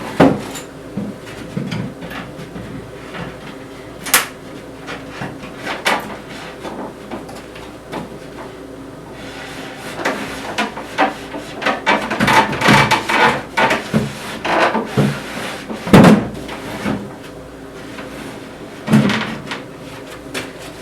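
Wooden shelf board being worked into a wooden bench frame: a series of knocks, thumps and scraping of wood on wood. There is a busier stretch of rubbing and clatter in the second half, with the loudest thump about three-quarters of the way through.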